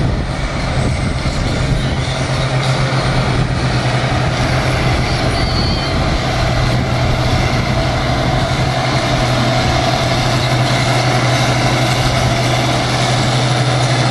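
Competition tractor-pulling tractor's engine running with a loud, steady low drone that holds the same pitch throughout.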